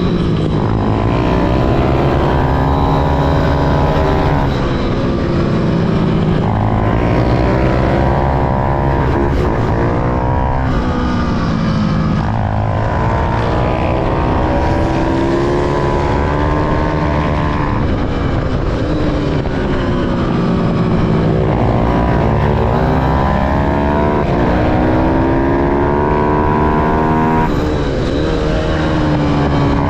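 Small single-cylinder minibike engines, a pit bike and an Ohvale, racing hard. The engine note climbs again and again as they accelerate through the gears, dropping back between climbs as they shift and brake for corners.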